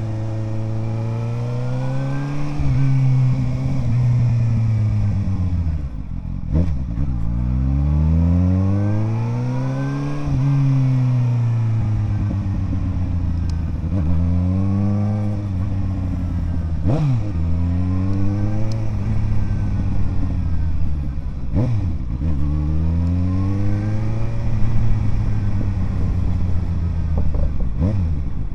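Suzuki GSR 750 inline-four running through an aftermarket Ixrace Z7 exhaust under riding, its pitch rising under acceleration and falling off again several times. Several quick gear changes, where the pitch drops sharply, come about a quarter of the way in, past halfway, about three-quarters through and near the end.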